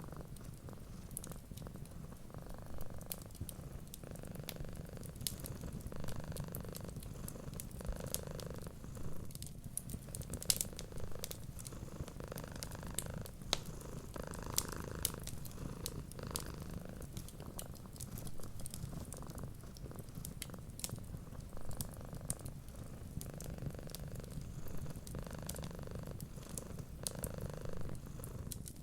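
Cat purring steadily, swelling and easing with each breath every second or two, over the crackle and small pops of a wood fire.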